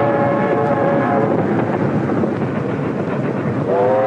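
A train running with a steady rumble, its whistle sounding a chord of several notes. The first blast is held until about a second in, and a second blast slides up in pitch and starts near the end.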